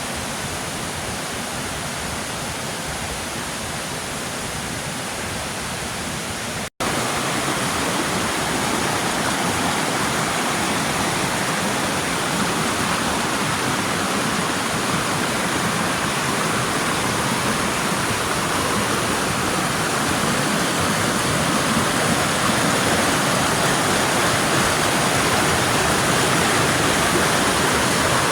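Waterfall rushing steadily. It cuts out for an instant about seven seconds in, then continues somewhat louder.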